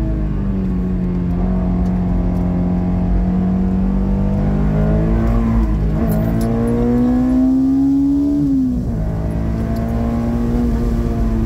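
Honda S2000's 2.0-litre four-cylinder engine heard from inside the cabin at track pace. Its pitch drops with a gear change near the start, climbs steadily under acceleration for about eight seconds, drops sharply with the next change near the end, then holds steady and eases slightly.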